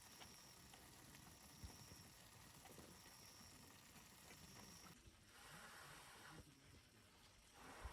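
Near silence: faint outdoor ambience, with a faint high tone repeating in short notes over the first few seconds.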